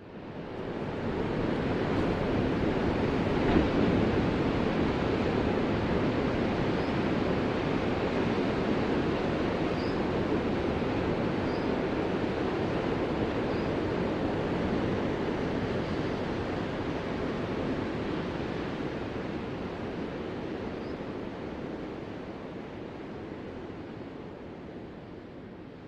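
Ocean surf: a steady rushing wash of waves that starts abruptly and slowly fades toward the end.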